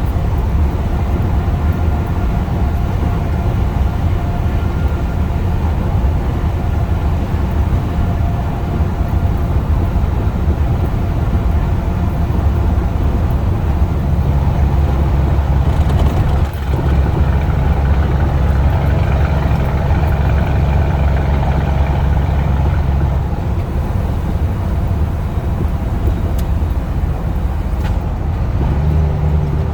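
Scania truck's diesel engine running steadily at road speed in direct gear, a continuous low drone with road noise. Its tone grows stronger from about 14 to 23 seconds in.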